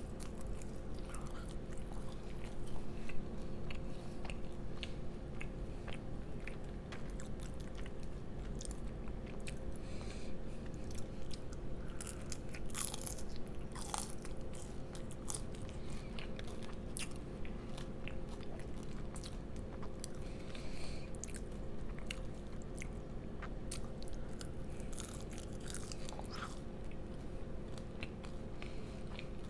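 Close-miked chewing and biting of french fries, many small wet mouth clicks and soft crunches. A steady electrical hum runs underneath.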